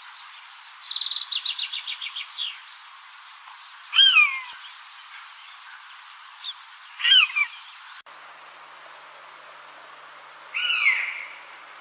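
Bird calls: a rapid pulsed trill, then a short high call that slides downward, repeated a few seconds apart, with one more such call after a sudden change in background near the end.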